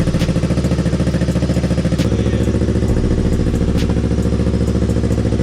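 Yamaha R3 motorcycle's parallel-twin engine idling steadily with a fast even pulse; it is the freshly swapped-in replacement engine, running after the old one's cylinders were damaged.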